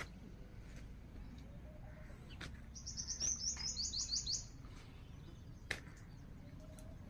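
A songbird sings one fast, high trill of quickly repeated, falling notes lasting about one and a half seconds, near the middle.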